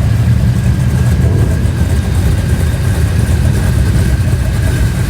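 Car engine idling with a steady low rumble that sounds nice.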